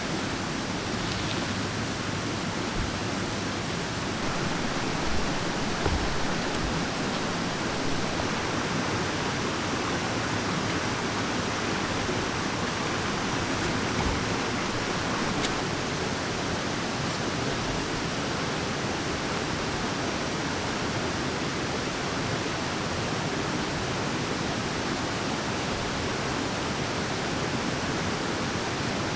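Mountain stream rushing steadily, an even unbroken water noise.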